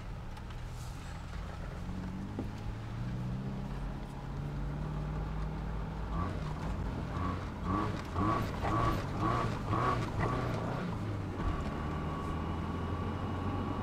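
Subaru engine running as heard from inside the cabin while the car drives off down the road. About halfway in, a high note starts pulsing about twice a second, then holds as a steady whine over the engine.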